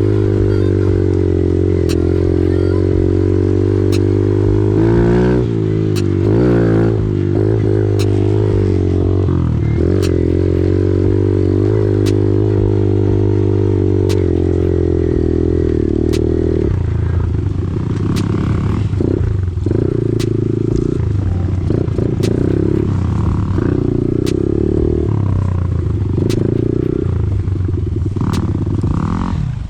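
Off-road vehicle engine running at a steady pitch. Its pitch wavers up and down a few seconds in, then goes uneven and choppy in the second half. A faint sharp tick repeats about once a second.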